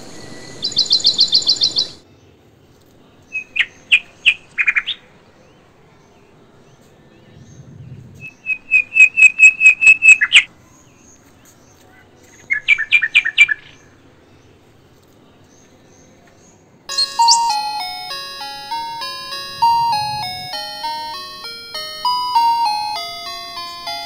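Small songbird calling in four short bouts of rapid repeated high chirps and trills, the loudest a run of about a dozen quick notes near the middle, separated by quiet gaps. About two-thirds of the way in, a tinkling instrumental music track begins and carries on.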